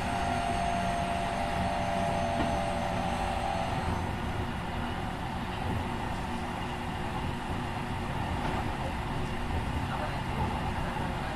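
Keikyu 1500 series electric train running, heard from inside the car. A steady whine from its Mitsubishi IGBT-VVVF traction drive stops about four seconds in, leaving the even rumble of wheels on rail.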